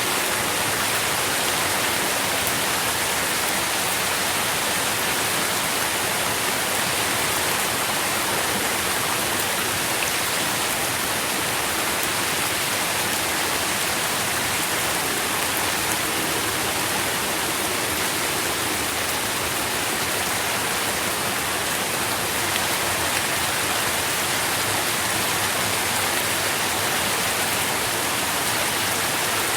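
Steady rain falling, an even hiss of many drops with no let-up or change.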